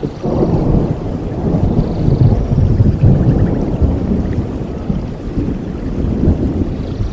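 Thunder rolling in a long low rumble over steady heavy rain, swelling sharply just after the start and loudest in the first few seconds before easing off.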